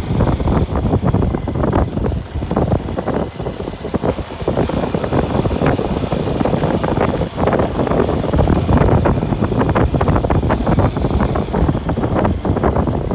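Heavy wind buffeting on the microphone mixed with the noise of a moving vehicle, loud and gusty throughout with brief dips a few seconds in.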